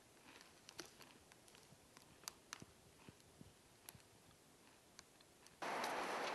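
Quiet room tone with a scattering of faint, sharp clicks, then a loud, steady rushing noise cuts in suddenly about five and a half seconds in.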